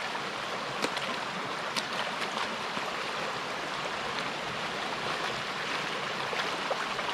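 Creek water running steadily, with a couple of sharp clicks in the first two seconds.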